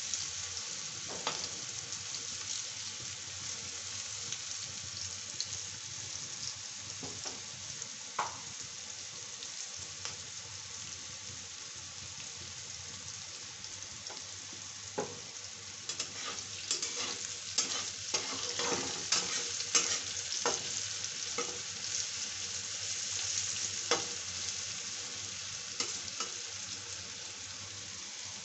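Oil sizzling steadily in a kadhai as diced pieces fry, with a metal spatula now and then scraping and clicking against the pan, most busily in the second half.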